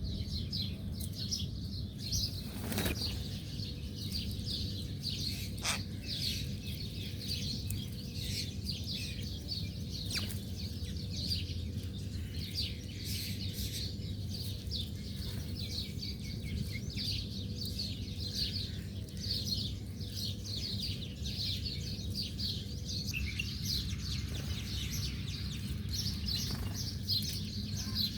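Many small birds chirping continuously, a dense stream of short high chirps, over a steady low rumble.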